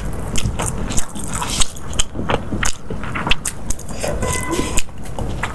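A person eating close to the microphone: biting and chewing, with many irregular sharp crisp clicks and crackles.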